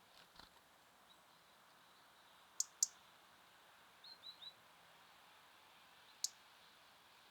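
Small songbirds at a feeder: two sharp clicks in quick succession, another click later, and a quick run of three short, slightly falling chirps in between.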